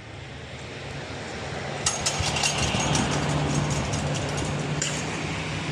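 A steady low mechanical hum that grows louder over the first two seconds, with a run of sharp clicks and rattles from about two seconds in.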